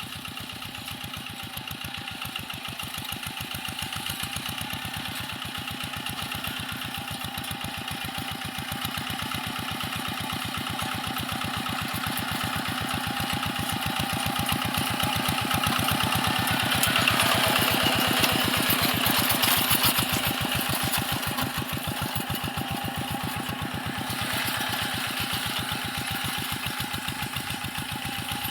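Paddy-field tractor engine running with an even, steady beat, growing louder toward the middle and then easing off again.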